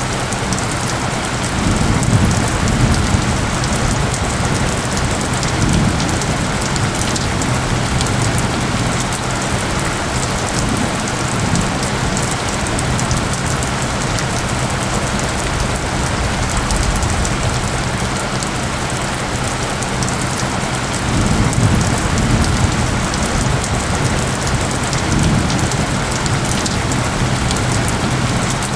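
Steady, dense rain falling, with low rumbles of thunder about two seconds in and again past twenty seconds. Under the rain runs a low, steady tone of isochronic tones.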